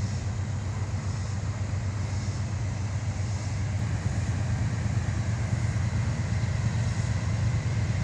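Low, steady rumble of an approaching freight train's diesel locomotives, slowly growing louder, with a faint chorus of insects above it.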